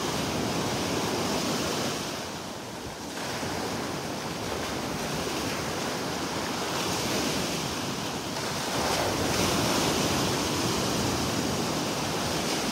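Gulf of Mexico surf washing up on the beach, a steady rushing wash that eases off briefly early on and swells again about two-thirds of the way through, with wind buffeting the microphone.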